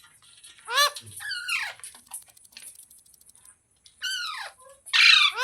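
Parrot giving loud, shrill calls in two pairs, one about a second in and another about four seconds in. Each call arches up and then down in pitch.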